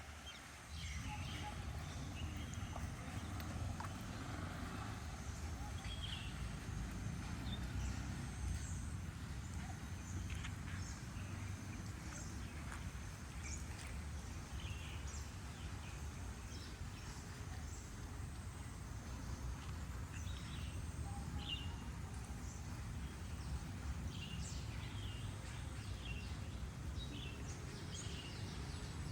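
Steady outdoor rain ambience with a low rumble underneath, and short bird chirps scattered throughout.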